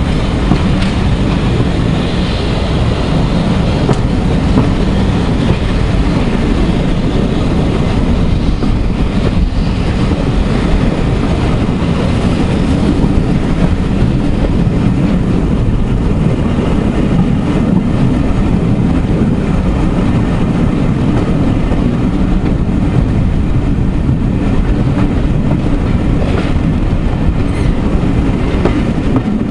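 Passenger train hauled by the steam locomotive 60163 Tornado running at speed, heard from a carriage window: a steady, loud rumble of coach wheels on the rails.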